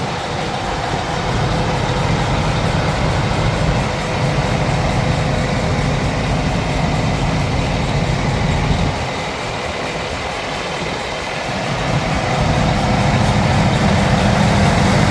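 Cummins ISX straight-six diesel engine of a 2006 Volvo VNL truck idling steadily. The sound drops for a few seconds about nine seconds in, then comes back up.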